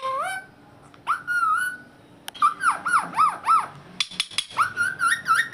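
Indian ringneck parrot giving a string of short, warbling whistled calls that swoop up and down in pitch. A few sharp clicks or knocks come in about two seconds in and again around four seconds in.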